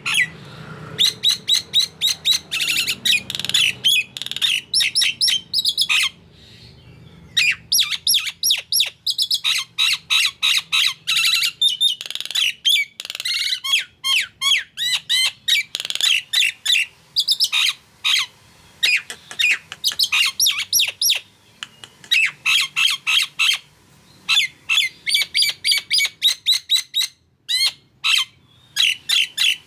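Nias hill myna calling in full voice: long rapid runs of sharp, loud, high notes, several a second, broken by a few short pauses.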